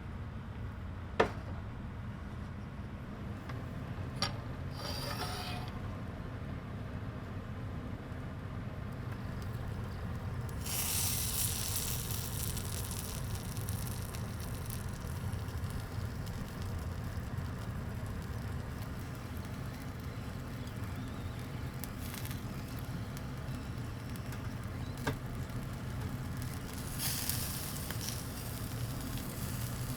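Food sizzling over charcoal on a small grill, with bursts of hiss about a second in, around 11 seconds and again near the end, over a steady low hum. A few sharp clicks stand out, the loudest about a second in.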